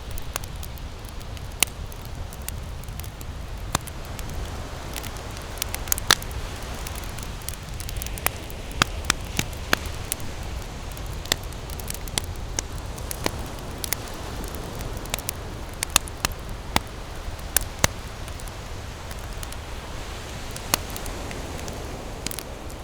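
Wood campfire burning, with irregular sharp crackles and pops over a steady hiss and low rumble.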